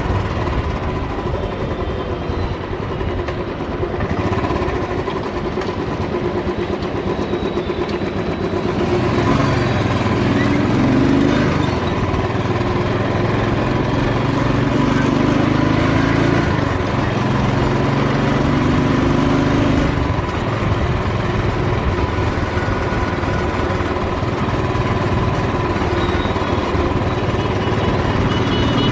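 Royal Enfield motorcycle engine running under way, with a steady rush of road and wind noise. In the middle stretch the engine note climbs and drops in steps a few times, as it accelerates and shifts gears.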